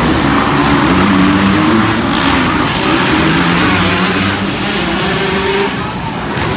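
Several arenacross dirt bikes racing, their engines revving up and down together, each at its own pitch.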